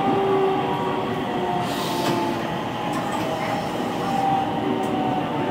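313 series 3000 subseries electric train running along the track, with continuous rail noise and several steady whining tones that shift slightly in pitch.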